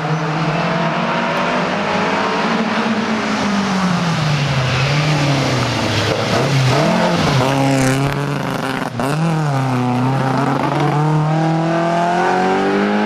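Rally car engine working hard along a stage, revving up and dropping back through gear changes; in the middle it falls and rises quickly several times, as in braking and downshifting into bends, then climbs steadily near the end.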